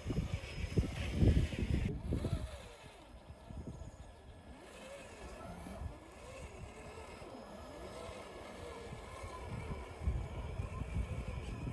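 Electric motor and drivetrain of a Traxxas TRX-4 scale RC crawler whining, the pitch rising and falling with the throttle. Wind buffets the microphone in the first two seconds and again near the end.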